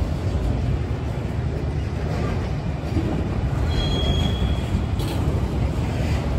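Freight train of autorack cars rolling past at close range: a steady rumble and clatter of wheels on rail. A brief high-pitched wheel squeal comes in about four seconds in and lasts about half a second.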